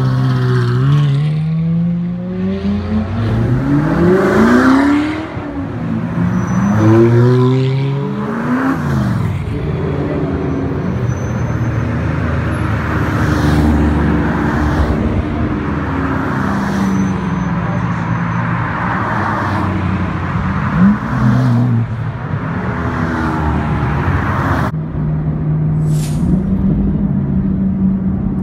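Supercars driving past one after another, their engines revving up and falling away as each goes by. About 25 seconds in the sound changes abruptly to a steadier engine drone from a car on the move.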